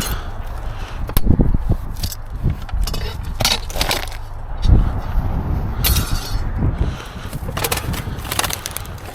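Junk being shifted and stepped on in a dumpster: irregular clunks, knocks and scrapes of debris being moved about.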